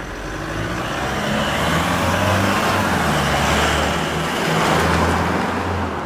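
Toyota Hilux GUN125's 2.4 L turbo-diesel breathing through a Ganador sport muffler, driving at low speed. A low engine drone under tyre and road noise builds over the first couple of seconds, holds, and eases off near the end.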